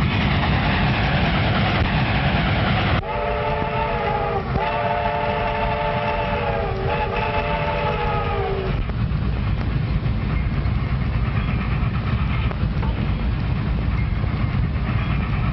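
Train running with a steady rumble and clatter; about three seconds in its whistle sounds three blasts in quick succession, a chord of several steady notes lasting about six seconds in all.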